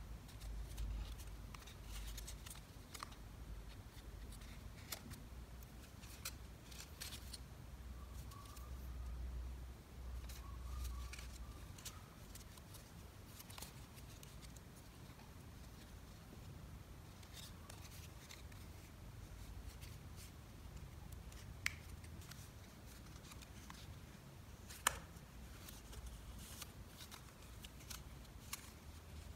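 Origami paper being handled and folded: soft rustles and creasing with scattered sharp clicks, over a low steady hum.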